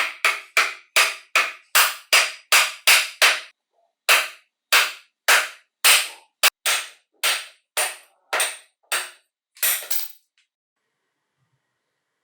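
Hammer blows on metal, about twenty sharp ringing strikes. They come two to three a second, with a brief pause after the first ten, and stop about ten seconds in.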